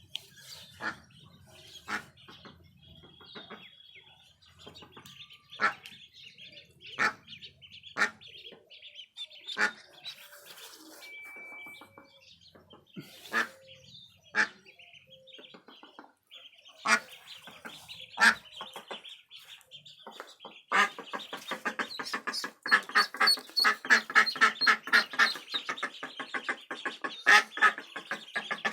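A brood of ducklings peeping in a steady high chorus, broken by scattered sharp calls. About two-thirds of the way in, a fast, loud, continuous run of duck calls sets in.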